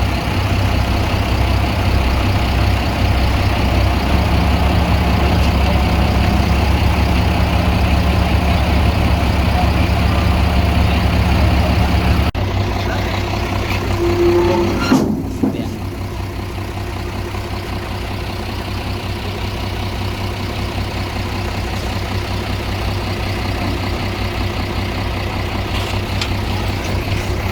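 Diesel engines of earthmoving machinery running steadily, with a heavy low hum. About twelve seconds in, the sound changes abruptly to a lighter engine note, and a brief tone and a short clatter come around fifteen seconds.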